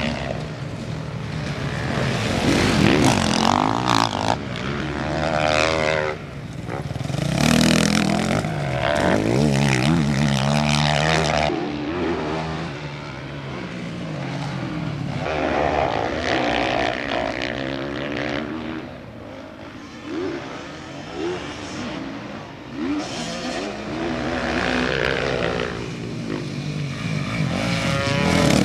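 Several motocross motorcycle engines revving hard and dropping back as bikes race past, their pitches rising and falling and overlapping. The sound eases off for a few seconds after the middle, then builds again near the end.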